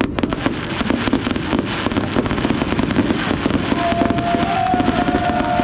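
Fireworks display: a dense, rapid crackle of many small reports from glittering gold bursts. A steady whistling tone joins about four seconds in.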